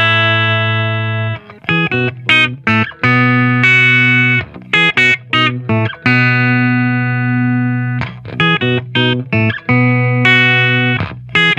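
Distorted electric guitar played through a Diezel VH2 tube amp head into a Marshall 1960 4x12 cabinet: long held chords alternating with quick runs of short, choppy stabbed chords.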